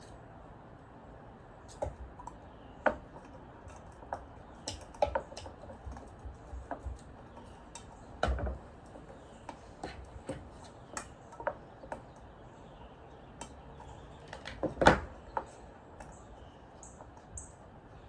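Irregular light clicks, taps and knocks of hands handling craft materials and a hot glue gun on a table, while twine is glued down on a bird feeder; a heavier knock comes about eight seconds in and the loudest about fifteen seconds in.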